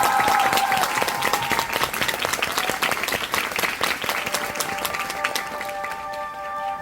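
Theatre audience applauding, a dense clatter of many hands clapping that gradually thins and fades. Steady sustained music notes come in near the end.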